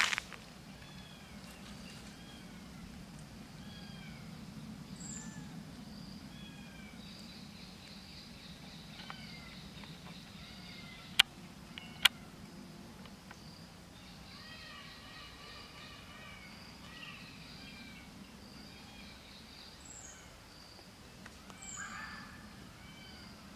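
Small birds chirping over and over, short arching calls a fraction of a second apart, over a low steady hum. About halfway through come two sharp knocks, close together.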